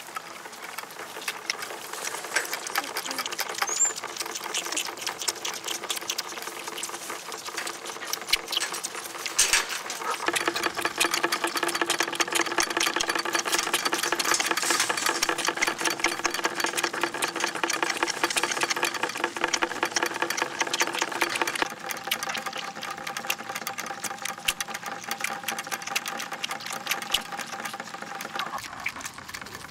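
A small machine running with a rapid, even clatter over a steady hum; the hum shifts to a new pitch about a third of the way in and again about two thirds of the way in.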